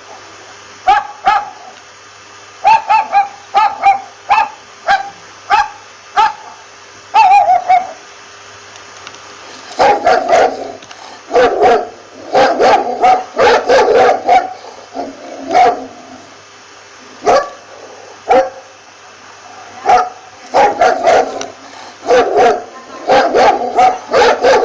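A dog barking repeatedly: short, high barks about twice a second for the first eight seconds. After a brief pause, deeper, fuller barks come in quick clusters.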